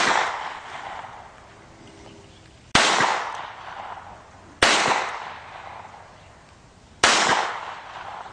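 Four pistol shots fired one at a time, about two seconds apart: one at the very start, then three more. Each is a sharp crack that dies away in a long echo.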